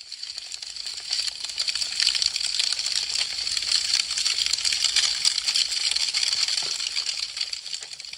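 Wood fire crackling: a dense stream of sharp snaps and pops that swells in over the first second or two and fades away near the end.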